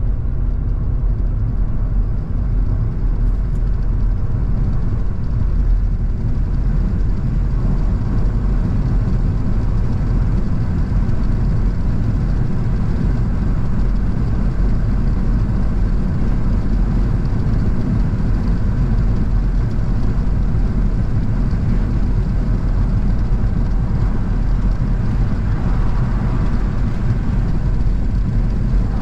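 A car driving at a steady speed: an even, low rumble of engine and road noise.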